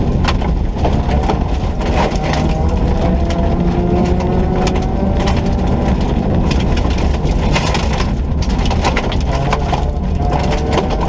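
Ford Ka 1400 rally car at full throttle on a loose stage, its engine note climbing and dropping back through several gear changes. Loose stones and grit crackle against the car's underside throughout.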